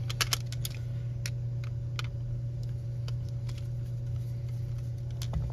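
Scattered small clicks and taps from handling the model locomotive's small parts and tools by hand, a quick cluster at the start and then single clicks every second or so, over a steady low hum.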